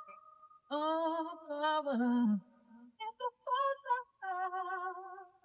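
A woman singing a melody in held, wavering notes, phrase after phrase.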